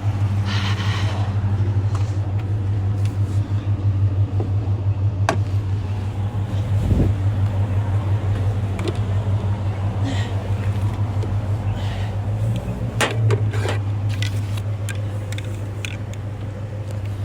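A vehicle engine idling steadily, a low hum that runs through the whole stretch, with scattered short clicks and knocks over it.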